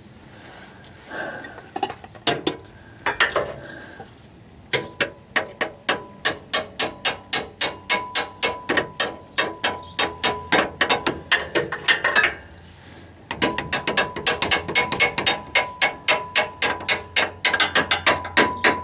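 Hand ratchet clicking in quick, even runs of about five clicks a second as a bolt is turned. The clicking comes in two long runs, with a short pause about twelve seconds in, and a few scattered knocks come before the first run.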